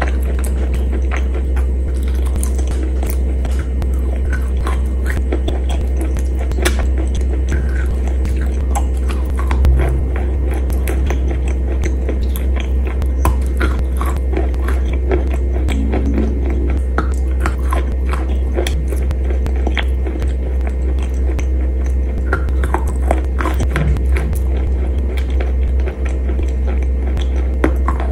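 Close-up biting and chewing of soft wet chalk paste: a steady run of many small sharp mouth clicks, over a steady low hum.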